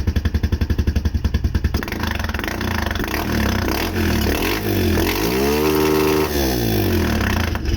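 Suzuki QuadSport ATV engine running on a newly fitted carburetor and intake manifold, not running nicely. It idles with an even thumping for the first couple of seconds, then runs smoother and higher, rising and falling in one rev about five to six seconds in, and drops back to a thumping idle at the very end.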